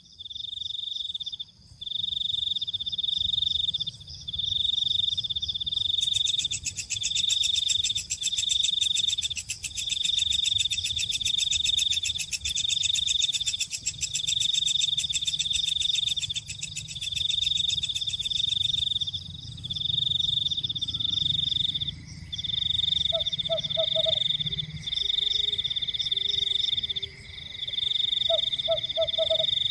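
Night chorus of calling frogs and insects: a high, pulsed trill repeats in bursts about a second long. A higher, continuous buzz joins for several seconds in the middle, and short lower chirps come twice near the end.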